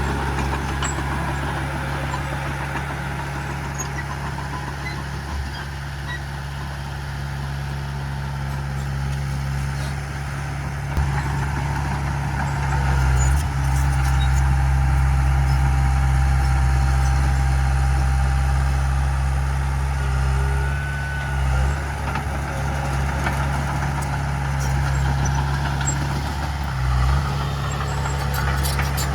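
Heavy diesel engine of earthmoving machinery running steadily under load, with a deep, even drone that grows louder about halfway through.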